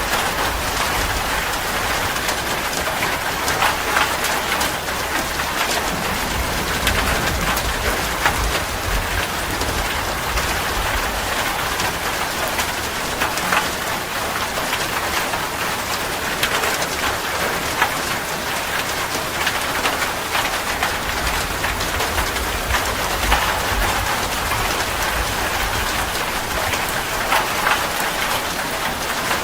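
Steady rain falling, a dense patter of drops hitting a surface, with individual drops ticking through the hiss.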